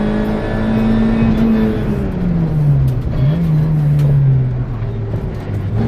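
VW Polo 1.4 rally car's engine heard from inside the cabin, running at high revs for about two seconds, then dropping in pitch, with a brief rise in revs a little past the middle, before running on at lower revs. Steady road and tyre noise runs underneath.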